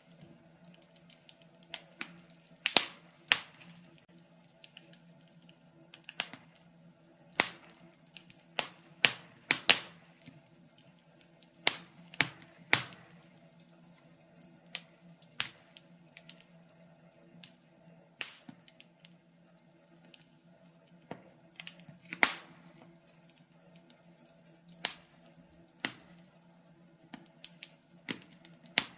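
Wood fire in a fireplace crackling, with irregular sharp pops and snaps, some loud and some faint, over a faint steady low hum.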